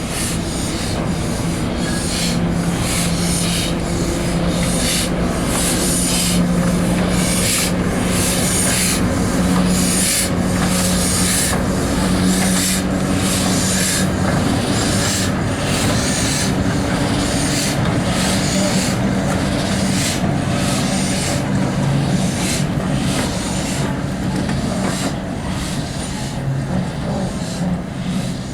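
Steam train running, with a steady rhythm of short beats about one and a half a second over a low, steady hum.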